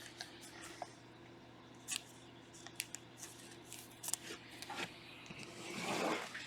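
Trading card packs and cards being handled: scattered light clicks and crinkles of foil pack wrappers and cards, with a longer rustle near the end.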